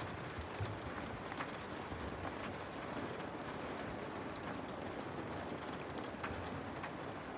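Steady rain on a window, an even hiss with individual drops tapping here and there.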